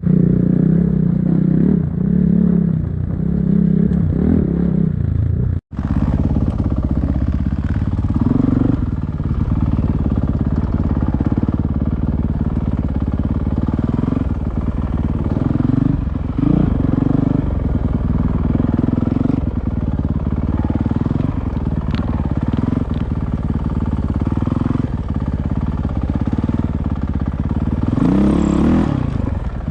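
Enduro motorcycle engine running under way, its pitch rising and falling with the throttle. The sound drops out for an instant about six seconds in, and the engine revs up and back down near the end.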